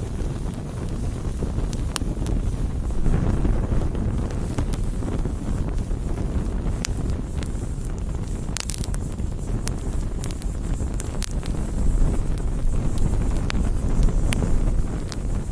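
Campfire burning: wood crackling with scattered sharp snaps and pops over a steady low rumble.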